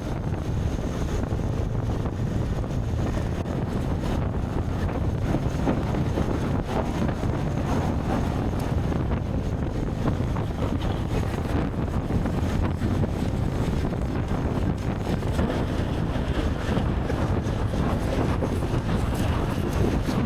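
Wind rushing over the microphone and steady riding noise from an eBixon CPX Pro electric motorcycle ridden at full throttle, with no engine note.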